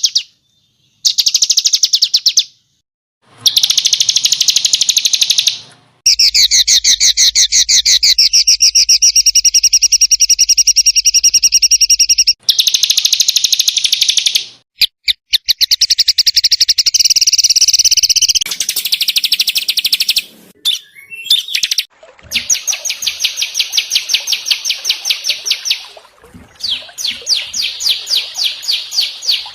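Small songbirds singing fast, harsh, rapid-fire trills: phrases of a few seconds each, some sweeping up and down in pitch, cut together with abrupt starts and stops.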